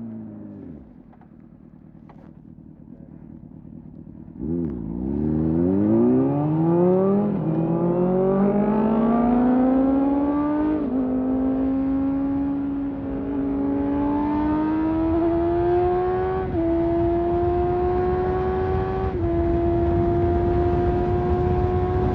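Motorcycle engine slowing with falling pitch, then ticking over quietly for a few seconds. About four and a half seconds in it accelerates hard, its pitch climbing through each gear and dropping back at each of several upshifts.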